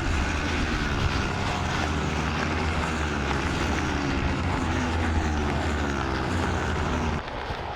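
Racing motorcycle engines revving hard, several pitches rising and falling together through gear changes. A heavy low rumble cuts off about seven seconds in.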